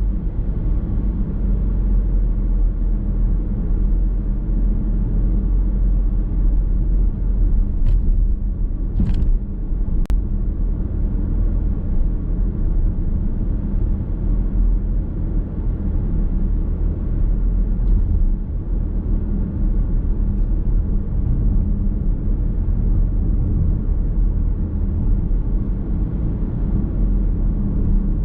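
Steady road and tyre noise with a low rumble inside a moving car's cabin. There are a few brief clicks about eight to ten seconds in.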